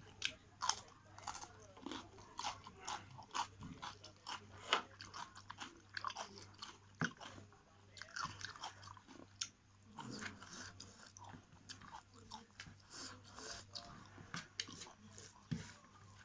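Close-up chewing and biting sounds of a person eating meat curry with rice: irregular mouth clicks and crunches, several a second.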